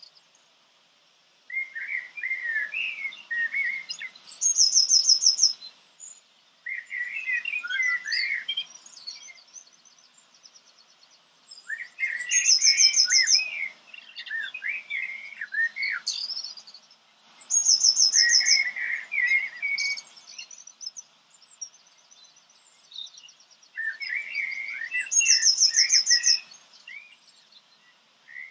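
A songbird singing the same phrase over and over, about every six seconds: a warbling run of notes followed by a high, rapid trill.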